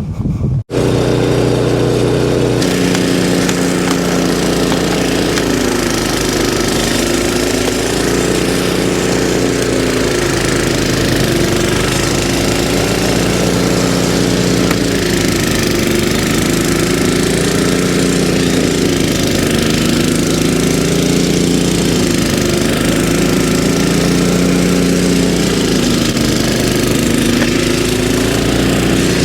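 Walk-behind snowblower's small engine running steadily, its note sagging and recovering every few seconds.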